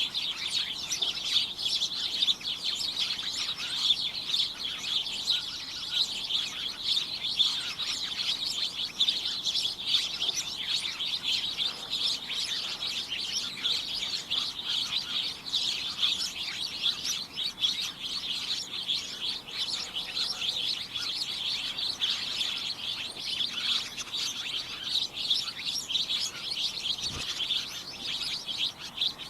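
Many small birds chirping at once in a dense, unbroken chatter of short, high-pitched, overlapping chirps.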